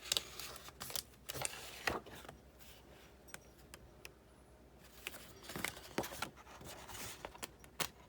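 Irregular clicks, taps and knocks of a Big Shot die-cutting machine's plates being handled, with a quieter stretch about halfway through.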